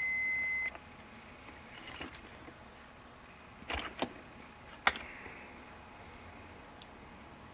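A digital multimeter's steady high-pitched beep that cuts off under a second in, followed by a few light clicks and taps as the meter and resistor block are handled.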